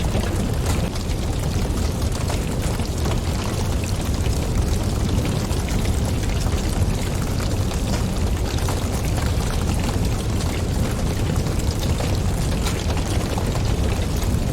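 Wood fire burning in a fireplace: a steady low rumble of flames and draught with many small crackles and pops scattered throughout.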